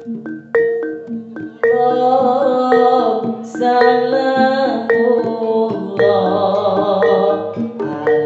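Jaranan gamelan music: metal-keyed mallet instruments striking a repeating pattern of ringing notes, joined about one and a half seconds in by a sustained, wavering melody that fills out the sound.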